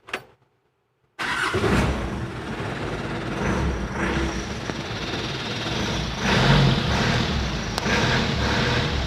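Mitsubishi Fuso Canter truck's 4D32 four-cylinder diesel engine running at idle, cutting in abruptly about a second in after near silence.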